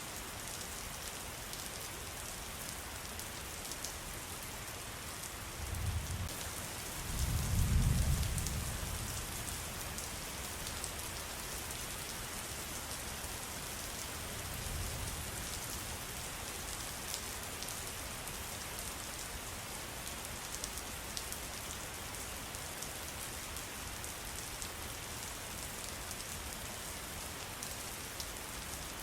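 Steady rain falling, with a fine patter of drops. A low rumble swells and fades about six to nine seconds in, and a fainter one comes at about fifteen seconds.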